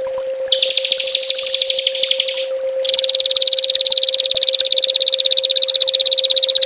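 Small songbird giving rapid, machine-gun-like 'tembakan' trills: a buzzy trill of about two seconds, a brief pause, then from about three seconds in one long, very fast trill on a single high pitch that falls slightly. A steady low hum runs beneath.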